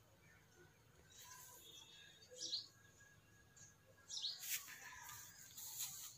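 Faint bird chirps, a couple of short high calls about two and four seconds in, with a spell of rustling noise in the last couple of seconds.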